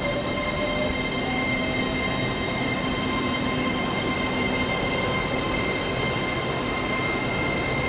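Train at a station platform, a steady rumble with several steady high whining tones.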